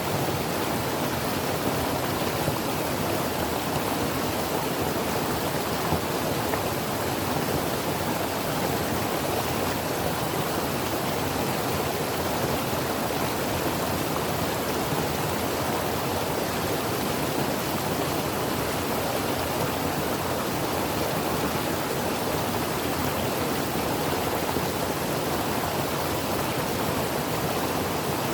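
Creek water running over rocks: a steady, even rush with no change.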